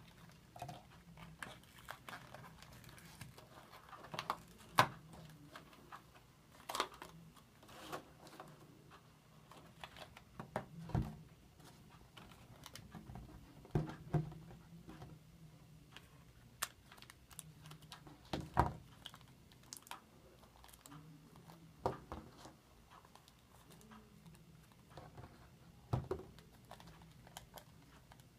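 Plastic toy packaging being handled and opened: irregular clicks, taps and crinkling from a Shopkins blind basket and its wrapper, with a few sharper knocks scattered through.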